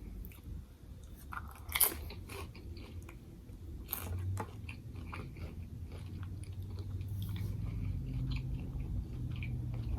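Biting into and chewing a banh mi sandwich: crisp crunches of the baguette crust, loudest about two and four seconds in, then steady chewing.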